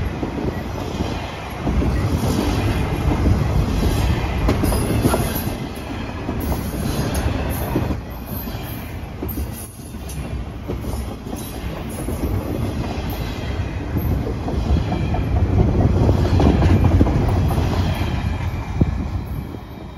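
Intermodal freight train's container cars rolling past close by, a steady rumble with wheels clacking over rail joints.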